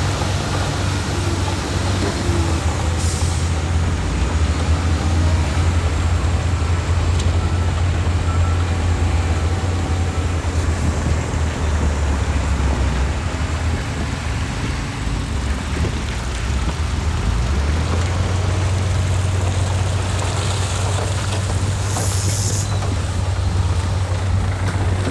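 Heavy diesel engine of earthmoving equipment running steadily at a low, constant drone, with two short air hisses, one about three seconds in and one about three seconds before the end.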